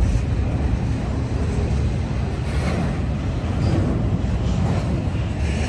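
Norfolk Southern intermodal freight train rolling past: a steady low rumble of the cars on the rails.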